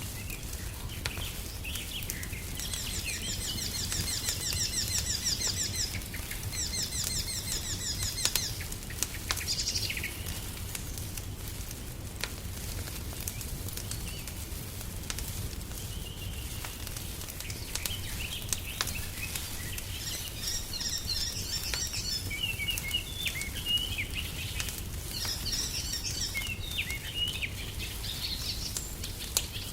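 Wood fire crackling in a fireplace, with scattered sharp snaps over a low steady rumble. Songbirds sing over it in several quick runs of high, rapidly repeated notes.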